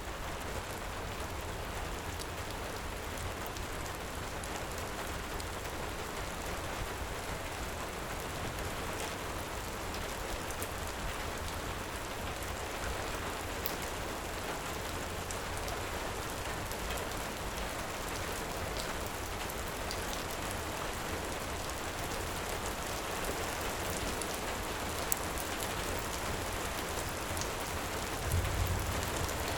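Heavy rain falling steadily, with scattered faint clicks through it and a brief low rumble near the end.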